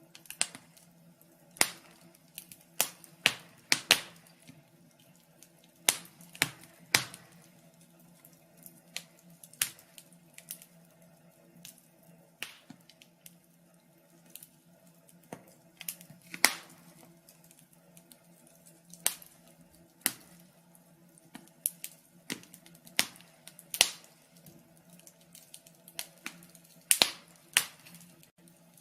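Wood fire in a fireplace crackling: irregular sharp pops and snaps, one or two a second and uneven in strength, over a faint steady low hum.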